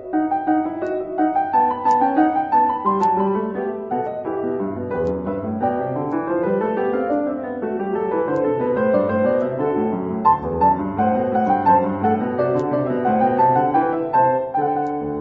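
Piano music playing continuously: busy running notes rising and falling, with no speech.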